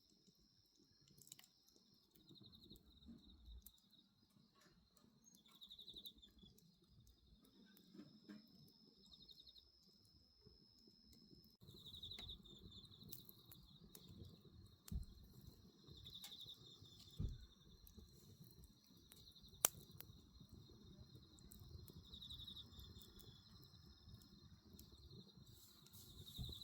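Wood bonfire crackling softly, with a few sharp pops in the second half, while crickets chirp in repeated short trills.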